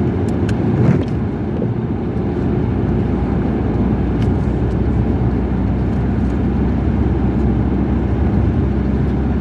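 A car driving: steady engine and road rumble, with a few light clicks in the first second.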